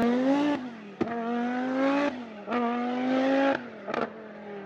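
Car engine accelerating hard through the gears: the pitch climbs in each gear and drops at each shift, with a change about every second and sharp clicks between some of them.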